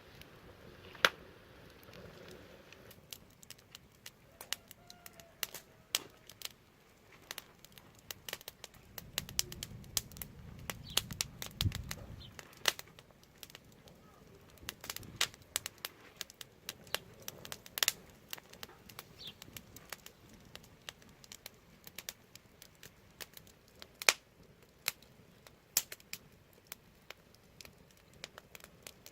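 Wood fire crackling, with irregular sharp pops and snaps over a soft hiss. The loudest pops come about a second in and twice more later on. A low rumble swells for a few seconds in the middle and ends in a thump.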